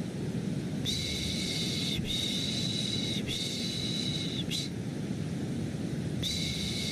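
Rhythmic baby-soothing shushing, 'shh' sounds of about a second each, over a steady low white-noise rumble. Three shushes come back to back starting about a second in, then a pause, and another begins near the end.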